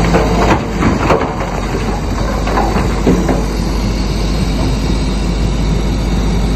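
Bulldozer running under load, its steel tracks clanking and squeaking several times in the first few seconds over a steady engine rumble.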